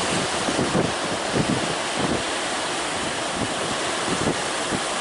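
Strong wind buffeting the microphone in irregular low gusts over the steady rush of heavy surf.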